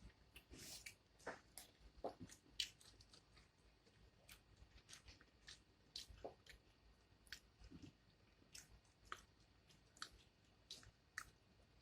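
Faint eating sounds: irregular small clicks, crunches and wet mouth noises of chewing food.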